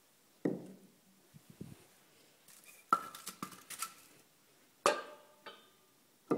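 Split firewood logs knocking together as they are handled, a few dull thumps mixed with sharper clinks; one sharp knock about five seconds in rings briefly, like wood striking metal or glass.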